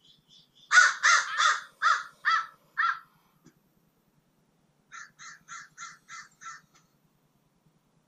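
A bird's harsh, rasping calls: six loud calls in quick succession about a second in, then a quieter run of seven faster calls about five seconds in. Faint high chirps sound at the start.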